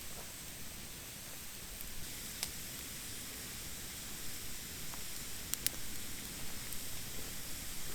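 Wood campfire of damp, thin branches burning in a fire pit: a steady hiss with a few sharp crackles, one about two and a half seconds in and two close together about five and a half seconds in.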